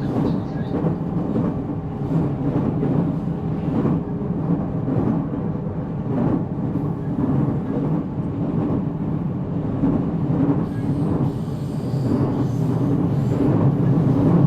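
JR Central 313-0 series electric train (motor car MoHa 313-7) running along the line, heard from inside the passenger car. It is a steady mix of wheel-on-rail noise and low running hum, growing slightly louder near the end.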